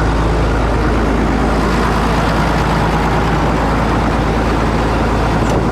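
Heavy truck engine idling steadily, left running to warm up.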